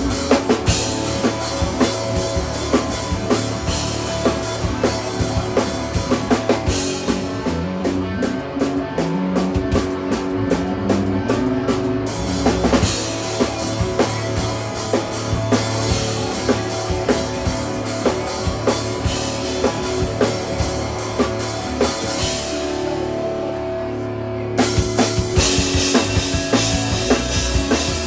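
Live instrumental rock band playing: the drum kit comes in under the electric guitar and bass. Near the end the cymbals drop out for a couple of seconds before the full kit comes back in.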